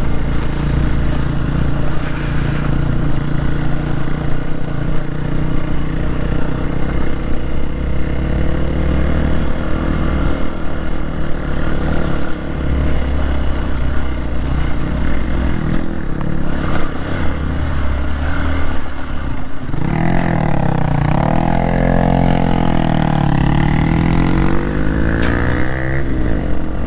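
Hero XPulse 200's single-cylinder engine running steadily under way. Over the last several seconds its pitch rises and falls repeatedly with the throttle.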